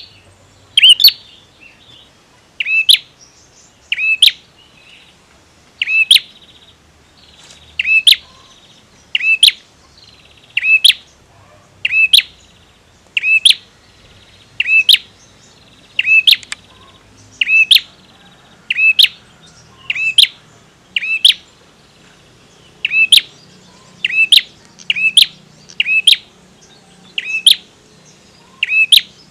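Male prenjak (prinia) giving a long series of loud, sharp call notes, about one every second or so, each dropping slightly in pitch. This is the call of a visiting male, played as a lure to set other prinias calling.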